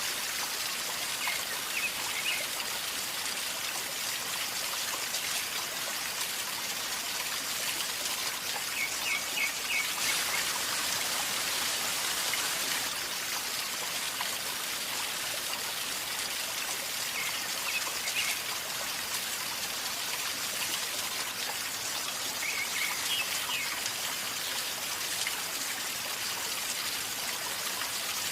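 River water flowing and gurgling steadily. A small bird chirps in short bursts four times over it.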